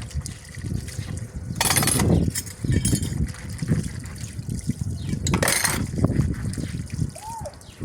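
Water splashing and pouring while dishes are washed by hand, with low sloshing throughout and two louder gushes, one about two seconds in and one about five and a half seconds in. A short squeaky chirp sounds near the end.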